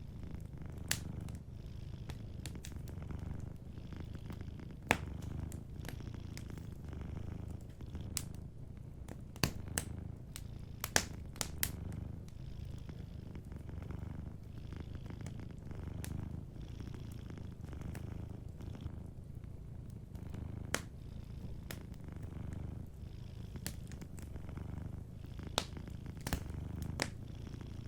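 Domestic cat purring steadily, a low rumble that swells and eases in slow, even pulses, with a wood fire's scattered sharp crackles and pops over it.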